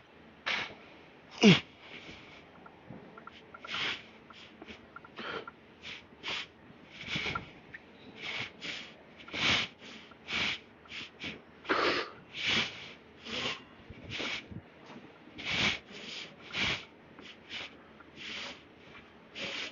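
A man breathing hard through a heavy barbell set: a long run of sharp, forceful exhales and sniffs, about one every half second to second, with a short grunt about a second and a half in.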